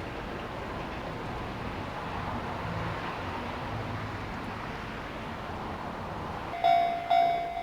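Steady rushing and rumbling of a train running along the line, then near the end a Japanese level-crossing alarm starts up with evenly spaced ringing dings, about two a second.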